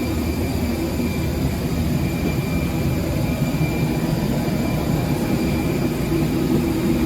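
Steady low engine rumble with a faint high whine running through it.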